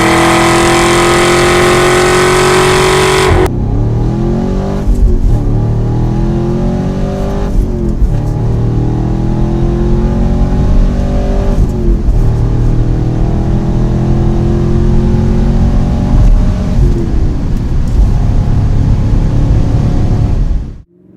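Chevrolet Camaro V8 with a Borla axle-back exhaust accelerating hard, the exhaust note rising steadily in pitch. After an abrupt cut a few seconds in, the car pulls through several upshifts, the note dropping back and climbing again with each gear change.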